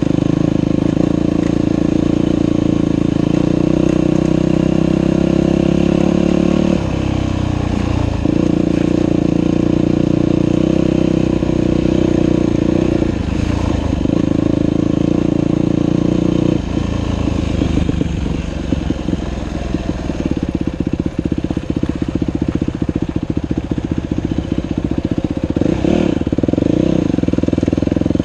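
Dirt bike engine running on a trail ride, held at steady revs with brief let-offs of the throttle about 7 and 13 seconds in. From about 17 seconds in it drops to lower revs with an audible pulsing firing beat.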